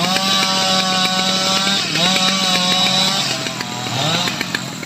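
Stihl MS 881 chainsaw running at high revs, with a brief dip about two seconds in and the revs falling off near the end.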